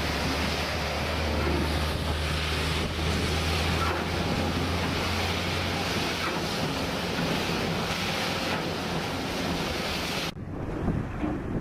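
Heavy snow-removal machine running with a steady low engine drone under a loud, even rushing hiss. Near the end the hiss cuts off abruptly and a rougher, uneven machine sound takes over.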